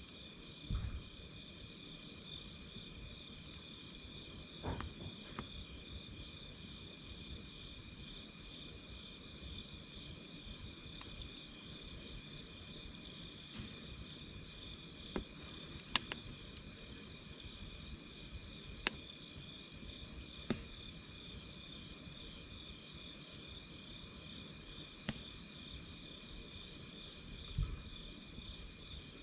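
Campfire crackling, with a sharp pop every few seconds, over a steady chorus of crickets chirping.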